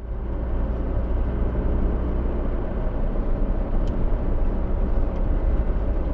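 Steady driving noise of a moving car, engine and road noise with a heavy low rumble.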